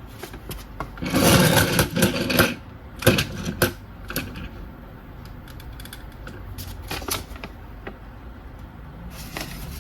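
Hard plastic parts of a transforming toy robot being handled and fitted together: a rustling stretch about a second in, then scattered sharp clicks and knocks, with a few more near the end.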